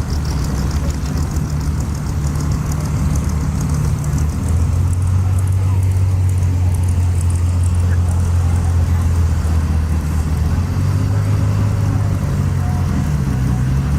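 A car engine running close by with a steady, deep low rumble; its pitch settles lower about four seconds in and shifts again near the end.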